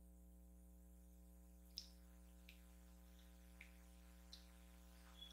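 Near silence over a steady low electrical hum, with a few faint, scattered soft clicks of someone eating a steamed dumpling.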